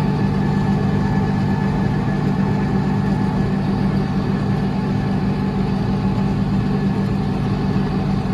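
Tractor engine running at a steady pace while plowing snow, a constant even hum with no change in speed.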